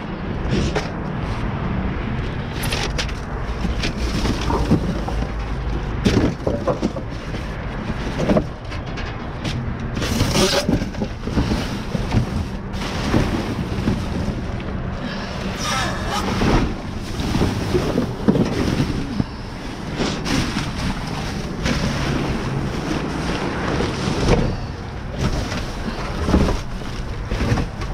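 Rummaging through a dumpster: plastic bags and items rustling and knocking in quick irregular handling noises, over a steady low rumble of wind on the microphone.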